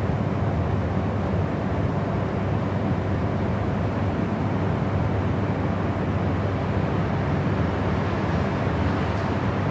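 Steady white noise for sleep: an even, unbroken rushing hiss, heaviest in the low end and rolled off in the highs.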